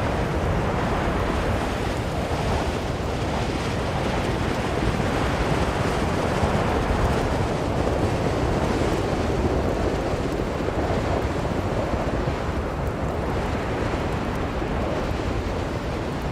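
Blizzard wind blowing steadily in a continuous rush of noise, weighted low, swelling a little around the middle.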